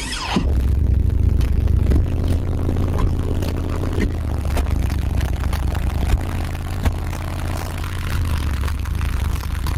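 Competition car audio subwoofers playing a deep, steady bass demo, with short rattles and clicks coming from the vehicle as it plays.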